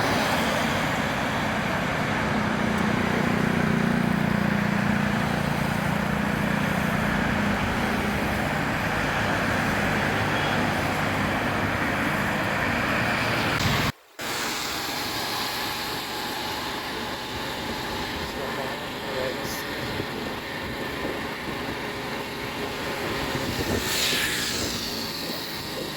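Street traffic on a rain-soaked road: a steady hiss of rain and wet tyres under a vehicle engine's hum, broken by a brief cut about halfway through.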